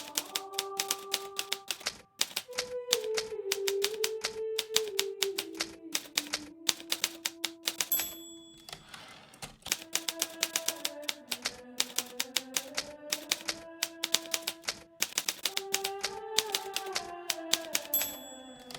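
Hermes Baby portable typewriter typing in fast, irregular key strikes, with a gentle melody playing underneath. About eight seconds in, the margin bell dings and a second of sliding carriage-return noise follows before typing resumes; the bell dings again near the end.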